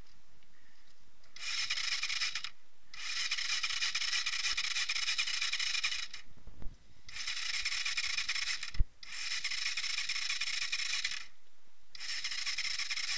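Electric starter of an Irbis TTR 250 motorcycle cranking in repeated bursts of one to three seconds with short pauses between, the engine not firing: it has been flooded with water through a full airbox. Two sharp clicks come near the middle.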